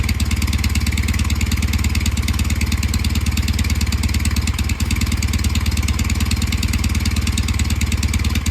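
Kawasaki W650's air-cooled parallel-twin engine idling steadily from cold, the exhaust beat sounding uneven, like an unequal-interval firing.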